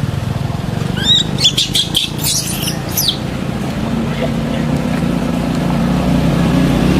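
A cluster of short, high-pitched chirping calls about one to three seconds in, over the steady hum of a running engine that grows louder in the second half.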